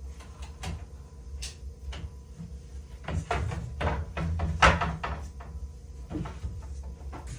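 Irregular wooden knocks and clatters, like building materials being handled, with a busier, louder cluster of knocks a few seconds in.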